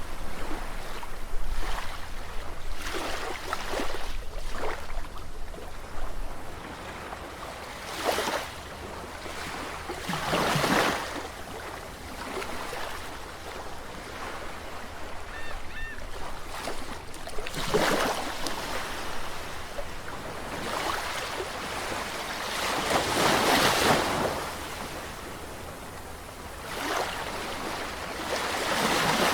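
Sea waves washing in, a rush of surf swelling and falling back every few seconds, with the biggest wave about four-fifths of the way through.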